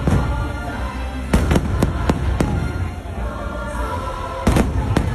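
Fireworks shells bursting in sharp bangs: a quick run of five about one and a half to two and a half seconds in, and another cluster near the end. The show's music plays underneath.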